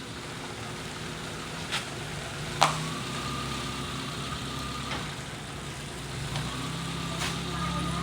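A vehicle engine idling steadily, with a few sharp clicks over it, the loudest about two and a half seconds in.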